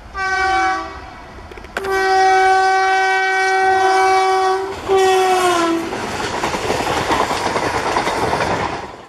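Indian Railways electric locomotive's air horn sounding three blasts: short, long, then short, with the last one falling in pitch. Then the rumble and wheel clatter of the passenger coaches passing close by.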